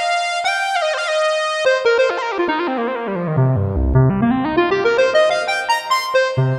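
Kurzweil K2500R synthesizer playing a factory preset with a bright, keyboard-like tone, recorded dry. A few held notes give way, about two seconds in, to a quick run stepping down into the bass, then climbing back up into the treble.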